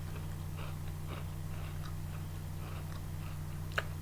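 A person chewing a bite of chocolate bar with Oreo cookie pieces, soft mouth sounds over a steady low hum, with one sharp click near the end.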